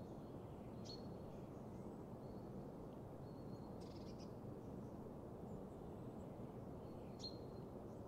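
Wild birds giving short, high calls three times, about a second, four seconds and seven seconds in, over a steady low rushing background.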